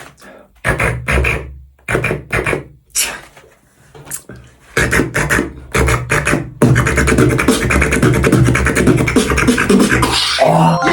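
Human beatboxing: a handful of separate bass-heavy mouth hits with gaps between them, then a fast, continuous beat from a little past the middle.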